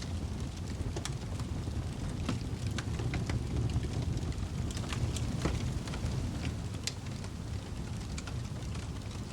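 Wood fire in a fireplace crackling: a steady low rumble of the flames with irregular sharp pops and snaps from the burning logs.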